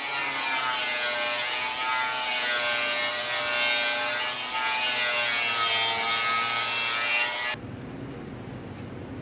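Handheld power tool running against a workpiece: a loud, steady rasping noise with a faint wavering whine. It cuts off suddenly about seven and a half seconds in, leaving a quieter low noise.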